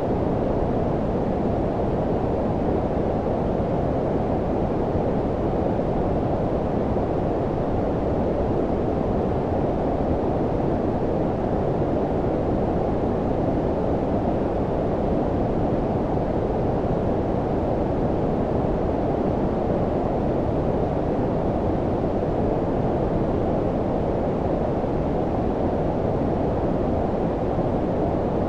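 Synthetic low-frequency noise of the brown-noise kind: a steady, even hiss-rumble, loudest in the lows and dull above, with no change at all.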